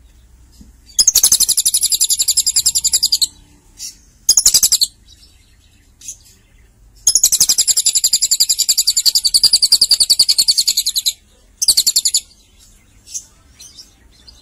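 Lovebird singing: two long, rapid, high trills of about ten notes a second, each lasting two to four seconds, with short chirps between them.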